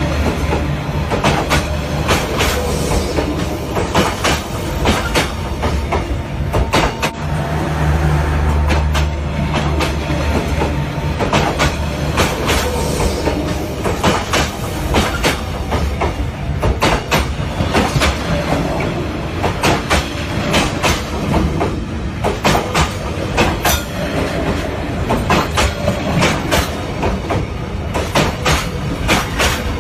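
Passenger train running along the track: a steady low rumble with frequent sharp clacks of the wheels over rail joints.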